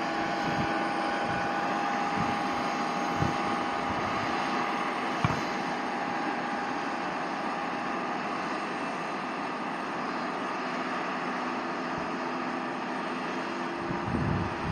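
Jet airliner engines running at a distance: a steady rush with a steady whine over it.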